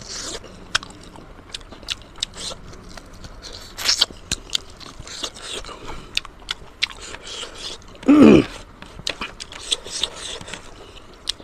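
Close-miked chewing of pork leg and pork nose: wet mouth smacks and sharp crunchy clicks throughout. About eight seconds in comes one short, loud vocal sound.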